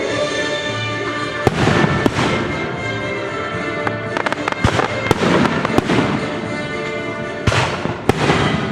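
Fireworks bursting overhead: a string of sharp bangs at uneven intervals, each followed by crackle and echo, with a quick run of cracks about four seconds in. Orchestral music plays steadily underneath.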